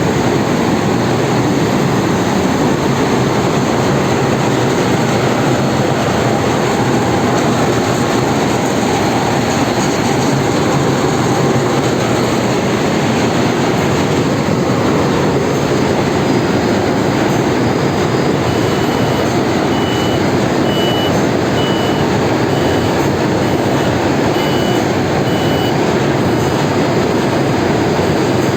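Loud, steady roar of a tanker's engine-room machinery running. In the second half, a short high beep repeats a little more than once a second for several seconds.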